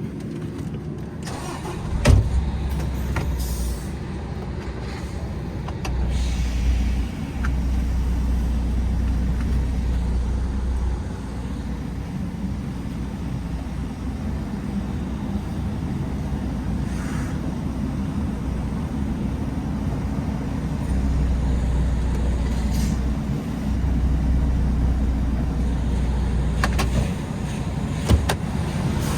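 MAN TGX 18.510 truck's six-cylinder diesel engine running, heard from the cab: a steady low drone that swells for several seconds at a time as the truck is driven, with a sharp knock about two seconds in.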